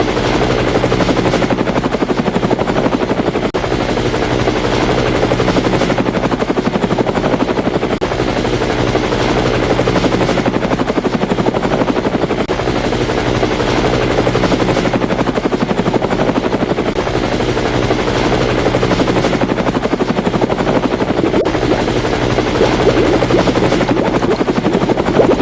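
Helicopter rotor sound, a steady fast chopping with a low hum.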